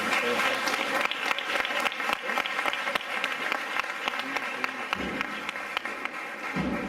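Crowd of spectators applauding, many hands clapping steadily, with a few low thuds near the end.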